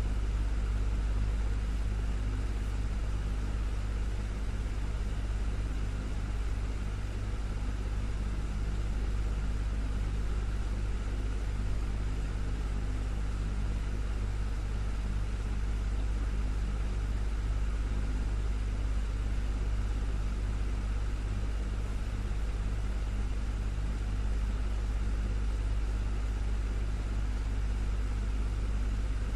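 Desktop fan running steadily: a constant low hum with an even whoosh of moving air.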